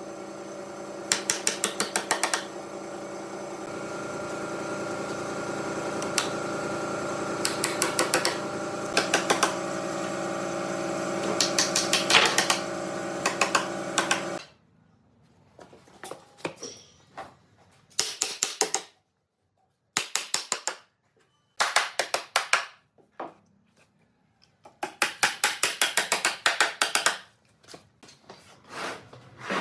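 A steady machine hum with bursts of rapid clicking over it, cutting off about halfway; after that, short bursts of rapid clicking separated by quiet gaps.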